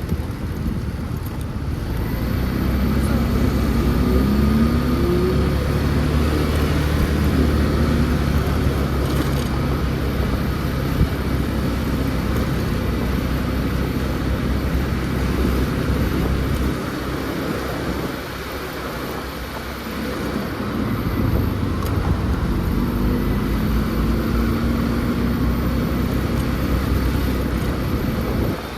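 Motor scooter engine running while under way, its pitch rising as it speeds up a few seconds in and again near the end, easing off for a few seconds past the middle.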